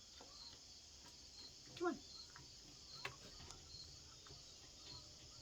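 Crickets chirping faintly and steadily, about two high chirps a second, with a single sharp click about three seconds in.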